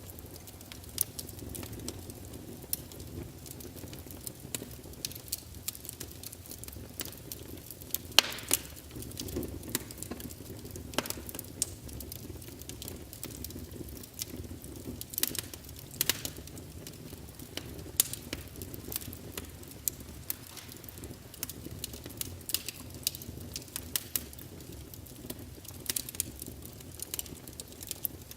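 Wood fire burning in a fireplace, with a steady low rumble and irregular sharp crackles and pops of the burning logs, the loudest pop about eight seconds in.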